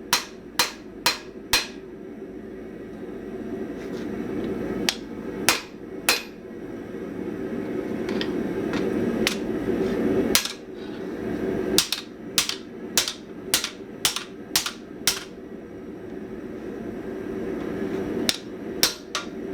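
Hand hammer striking hot spring steel on an anvil, in short runs of quick blows, about two a second, with pauses between. A steady rushing noise runs underneath.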